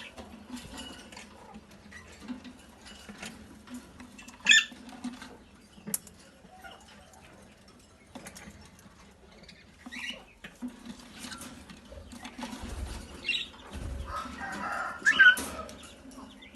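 Caged parrots moving about, with scratching and fluttering and a few short, sharp squawks, the loudest about four and a half seconds in.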